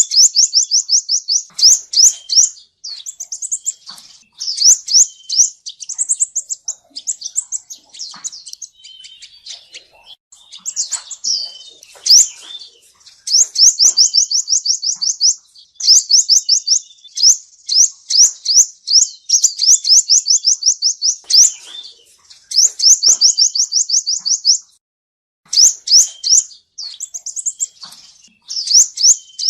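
Male sunbird ('seven-colour sunbird') singing: high, rapid trills of evenly repeated notes in phrases of one to two seconds, broken up by shorter chirps, with one brief pause near the end.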